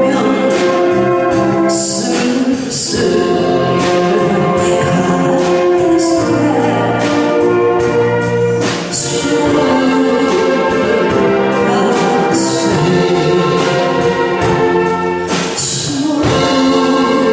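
Saxophone ensemble playing a slow melody in full harmony over a steady beat, with a few bright crashes.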